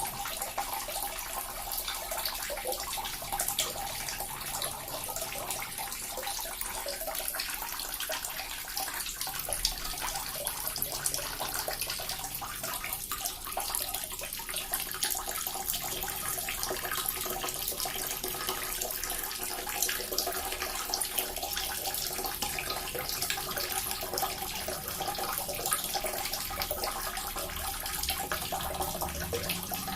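Small water fountain splashing and trickling, a steady, dense patter of falling water that does not change.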